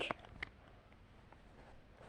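Quiet room tone with a faint short click about half a second in.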